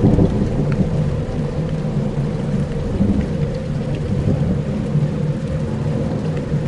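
Dark ambient soundscape: a steady, dense low rumble like distant thunder, with a rain-like hiss over it and a few faint ticks.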